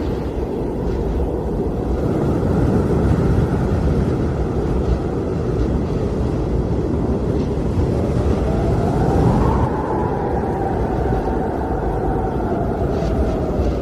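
Blizzard wind blowing hard and steadily with a deep rushing rumble. A thin whistle rises just past the middle, then slowly sinks and fades near the end.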